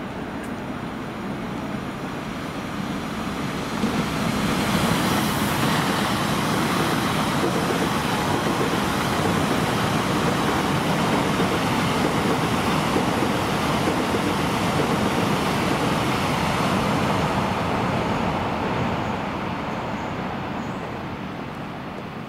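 Southeastern Class 395 Javelin high-speed electric train running past on the platform line: a rushing rumble of wheels on rail that builds as it arrives, holds steady while the coaches go by, and fades as it pulls away.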